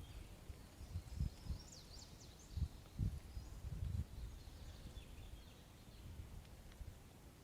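Birds chirping in short high calls, in a cluster about two seconds in and again around five seconds, over faint irregular low bumps.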